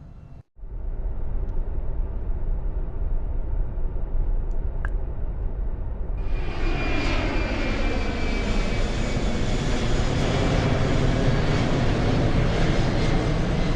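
Airplane engine sound effect: a steady low engine rumble, joined about six seconds in by much louder engine noise with a high whine, as for a plane powering up for takeoff.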